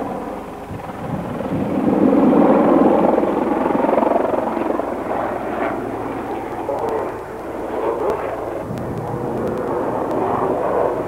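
Helicopter flying a display pass, its rotor and engine noise swelling to its loudest about two to four seconds in, then easing off.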